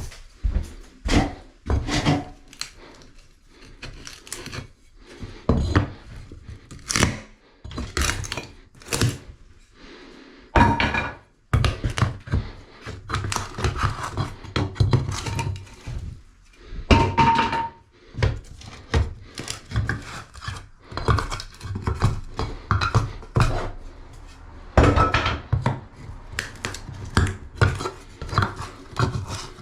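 Irregular thuds and clatters of hard objects being handled, knocked and set down in a small room, one after another, with a couple of brief ringing clinks.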